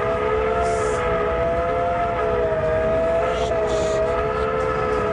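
A steady drone of several held tones that waver slightly in pitch, over an even low rumble, with two short bursts of hiss, one about a second in and one about three and a half seconds in.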